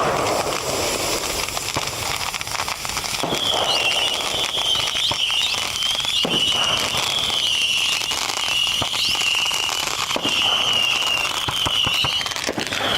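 A large bonfire of Christmas trees packed with fireworks, crackling hard with many sharp pops and bangs. From about three seconds in, a high wavering whistle runs through the crackling.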